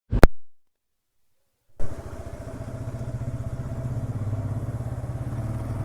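A sharp click, then silence, then a motorcycle engine running steadily with an even pulsing beat, cutting in abruptly about two seconds in.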